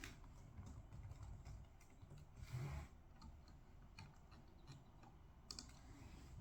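Quiet desk-work sounds: scattered light clicks and taps, with a brief soft rustle about two and a half seconds in and a sharper click about five and a half seconds in.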